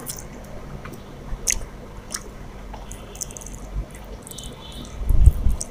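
A person chewing rice and chicken curry with wet mouth clicks and smacks, as food is eaten by hand from a steel plate. A louder low thump comes near the end.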